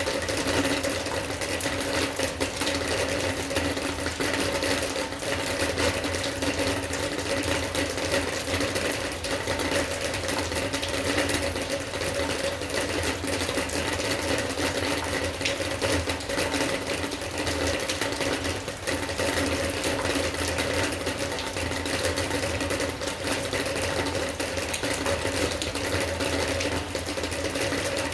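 Steady rain: a dense, constant patter of drops over an even hiss, with a steady low hum underneath.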